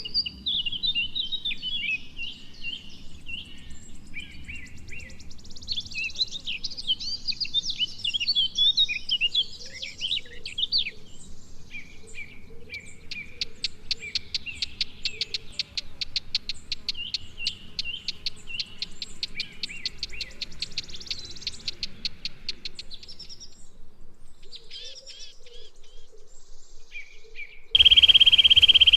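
Wild songbirds chirping and whistling, with a fast, even trill running for several seconds in the middle. About a second before the end a loud, steady high buzz starts abruptly.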